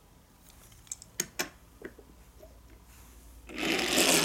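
Toy vehicles being handled: a few light clicks and knocks, then near the end a short, loud scraping whirr under a second long, like a toy rolled or slid across a surface.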